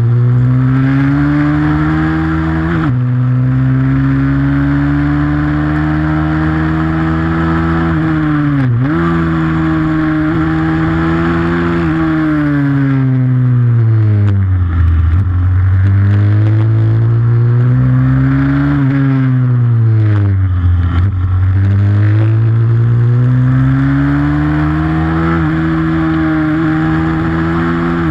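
Pit bike's single-cylinder four-stroke engine running hard under race riding, its pitch climbing as it accelerates and falling back as it slows, over and over. It gives a few quick dips, as at a gear change.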